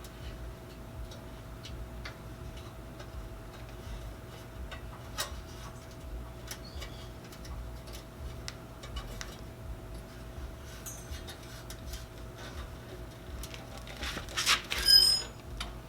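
Scattered light metallic clicks of hand work on an exhaust, then a louder metallic clatter with ringing near the end as the pulling wire slips off.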